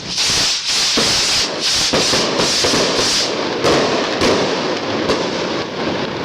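Fireworks and firecrackers going off in a rapid, continuous crackling barrage, with a couple of louder bangs around the middle.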